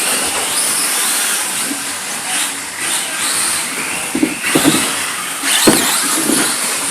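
Radio-controlled car running, a steady hissing whir of motor and tyres, with a few short knocks about four seconds in and again near the end.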